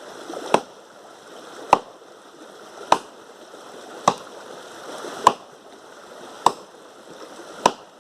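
Axe chopping wood by hand: seven sharp blows at an even pace, a little over a second apart.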